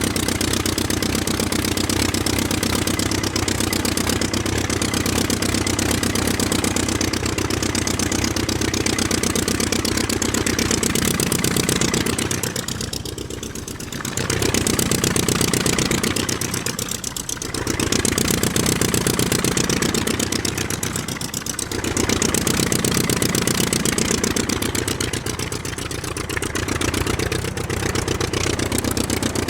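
Engine-like motor sound running steadily, easing off and picking up again about four times.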